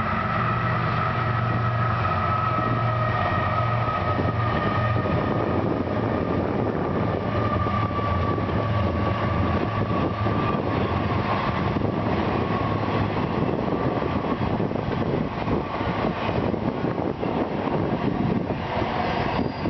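Diesel-hauled freight train passing: a steady locomotive engine drone with a high whine, then from about halfway in the fast, irregular clatter of freight cars' wheels rolling over the rails.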